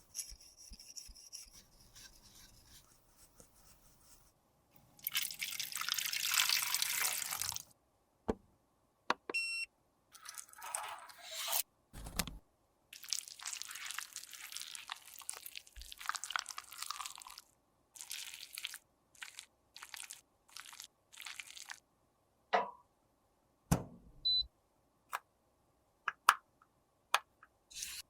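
Close-miked handling of makeup products in repair: stretches of hissing, scraping or brushing noise, the loudest lasting a couple of seconds, broken up by many short taps and clicks that come more sparsely near the end.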